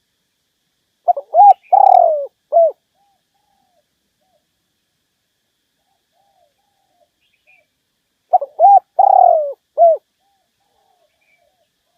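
Spotted dove cooing: two song phrases about seven seconds apart, each made of two short coos, a longer drawn-out coo that falls away, and a short final coo. This is the male's territorial call, used here as a decoy to draw rival males in to fight.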